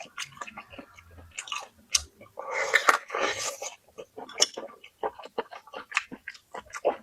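Close-up sounds of a person eating: wet chewing with many quick smacking clicks, and a louder, denser noisy stretch lasting about a second, starting about two and a half seconds in.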